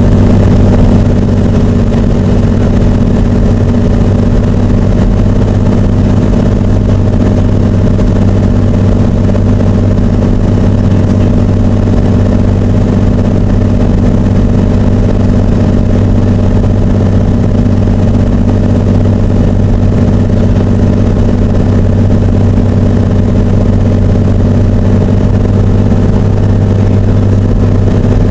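Cessna 206 Turbo's turbocharged six-cylinder piston engine and propeller droning steadily at a constant power setting, a low hum with several steady tones.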